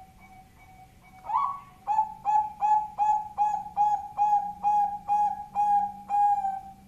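Zebra dove (perkutut) song: soft short notes, then a rising note a little over a second in, followed by a fast run of about a dozen loud, ringing coos at two to three a second that stops shortly before the end.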